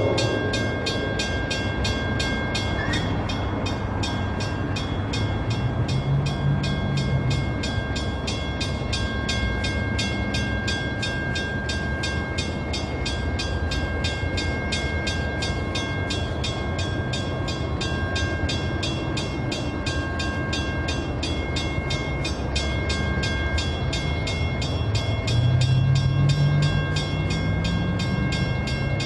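Train running by: a steady rumbling noise of rolling stock, with a low engine note that rises about six seconds in and again near the end.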